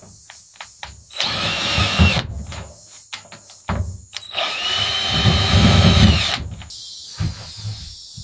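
Handheld power tool running in two bursts, a short one of about a second and a longer one of about two seconds, each with a steady high motor whine; sharp clicks and taps fall between the bursts.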